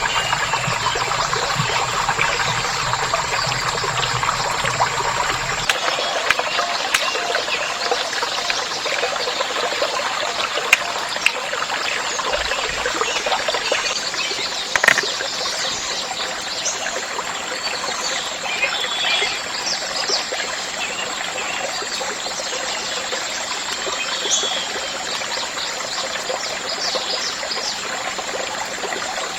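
Water trickling steadily, with small bird chirps and a steady high insect drone of rainforest ambience.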